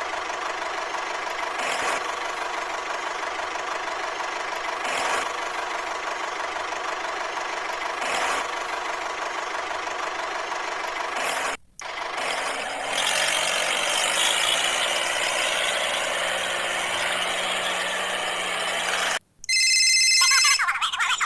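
Engine running steadily with a knocking rhythm. It cuts out briefly about halfway through and picks up again with a slightly different, brighter sound, then stops, and a short high-pitched tone sounds near the end.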